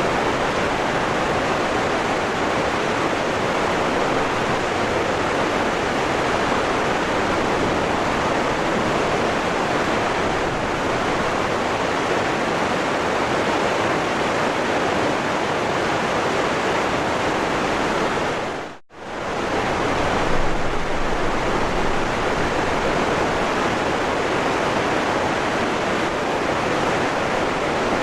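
Waterfall water rushing, a steady even roar. About two-thirds of the way through it briefly fades out almost to silence and straight back in.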